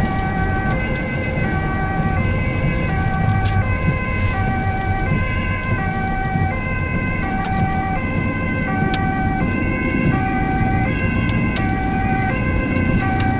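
Ambulance two-tone siren alternating steadily between a high and a low note, heard from inside the cab over the engine and road rumble.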